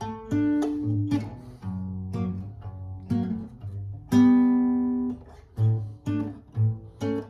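Acoustic guitar played alone, fingerpicked: a melody of plucked notes over a steady bass line, each note ringing and fading.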